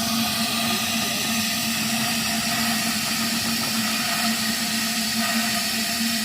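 A steady machine hum with a constant low tone and an even hiss over it.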